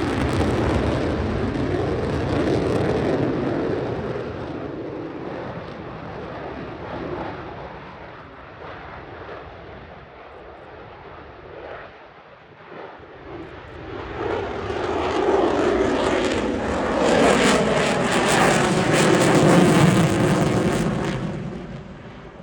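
Airshow aircraft flying past with a loud engine roar, once in the opening seconds and again, louder, from about a third of the way through until it fades near the end.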